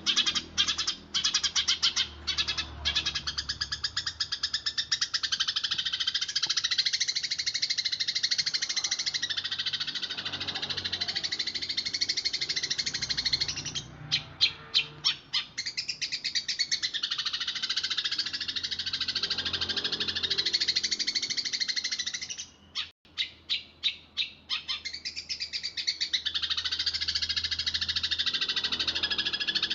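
Eurasian tree sparrows chirping in a fast, dense, high-pitched rolling stream. About halfway through and again later, it briefly breaks into rapid separate chirps before running together again.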